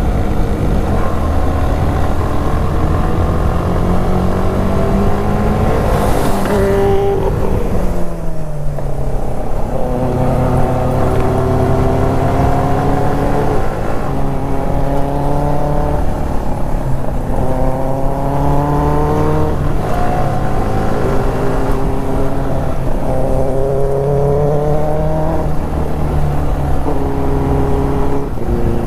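Benelli 600i's inline-four engine revving hard as the motorcycle accelerates through the gears, its pitch climbing in each gear and dropping at several upshifts. About six to eight seconds in, the revs fall away before the engine pulls again.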